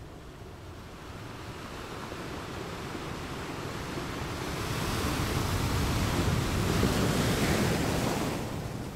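Wind rushing over the microphone with choppy sea water splashing, growing louder through the middle and dropping away near the end.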